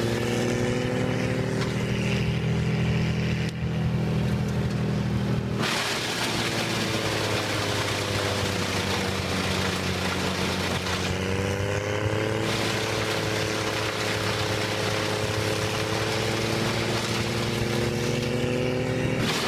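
Engine of heavy wood-processing machinery running at a steady speed, its pitch drifting slightly. The sound changes abruptly several times.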